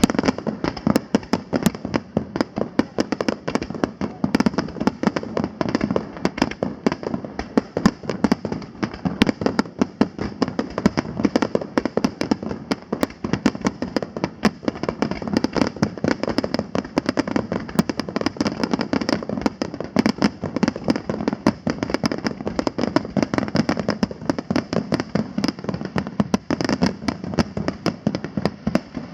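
Aerial fireworks display: a dense, unbroken barrage of shell bursts, many bangs a second.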